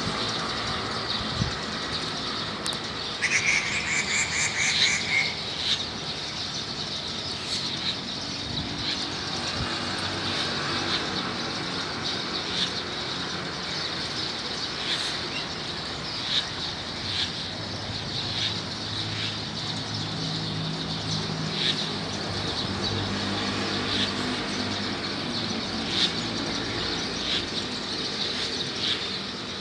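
Wild birds chirping throughout, with a rapid trilling call about three seconds in, over a steady low hum like distant traffic.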